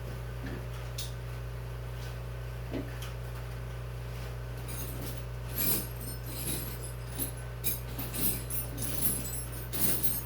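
Metal hand tools clicking and clinking: a socket ratchet being fitted and worked on 10 mm bolts. There is a string of irregular sharp clicks from about halfway in, over a steady low hum.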